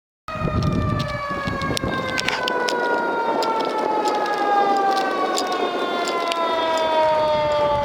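Emergency vehicle siren in a slow wail, its pitch falling steadily throughout, with scattered light clicks.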